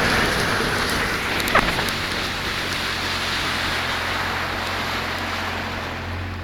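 Sea-Doo jet ski off the throttle, its engine at a low idle hum under a steady hiss of water and wind that slowly fades.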